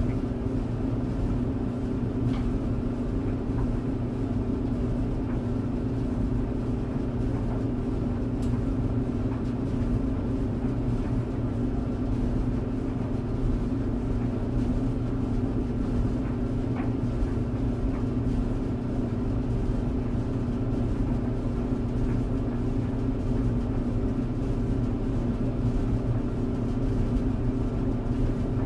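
Tumble clothes dryer running: a steady hum from the turning drum and motor, with a few faint clicks here and there.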